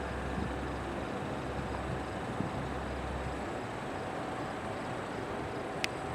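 Boeing 737 MAX with CFM LEAP-1B engines landing: a steady jet rush with a low rumble that drops away about halfway through. A sharp click near the end.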